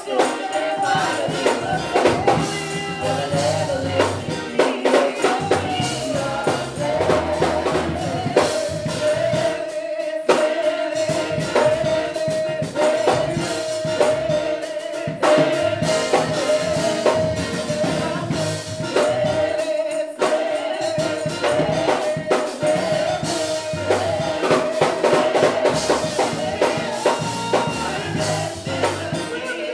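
Live gospel music: singing with a drum kit and a tambourine struck in quick rhythm, over a long held note.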